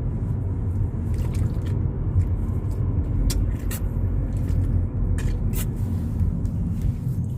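Volkswagen Polo GTI being driven: a steady low rumble of engine and road noise, with a few brief clicks scattered through it.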